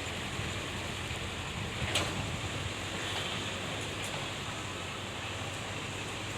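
Steady rushing background noise with a low hum, and a single sharp click about two seconds in.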